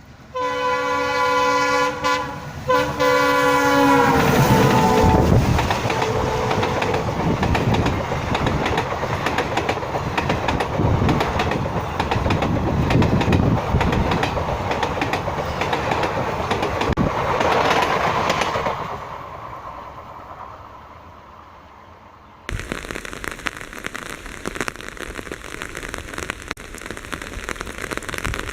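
WDM3A diesel locomotive sounding its multi-note horn in two long blasts, the pitch dropping as it passes, followed by the loud rumble and clatter of the train running by, which fades away. About 22 seconds in, it cuts abruptly to a steady hiss like rain.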